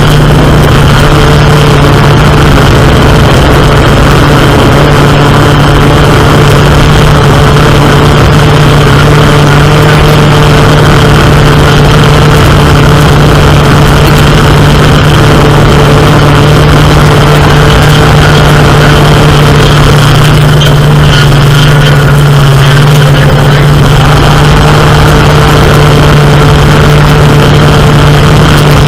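Camera drone's propellers humming steadily at one pitch, loud on the drone's own microphone, with the pitch sagging briefly about two-thirds of the way through.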